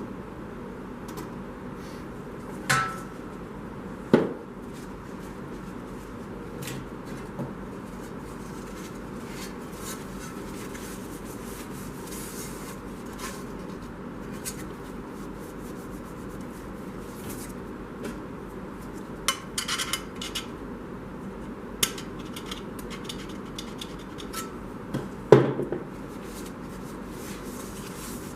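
Occasional clinks and knocks of hand tools and small parts being handled on a workbench, with sharper knocks about 4 seconds in and near the end.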